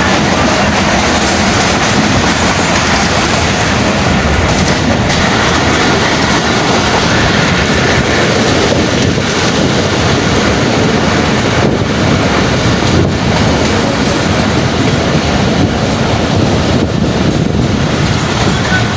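Passenger train running steadily on the track, a loud, even noise of wheels on the rails.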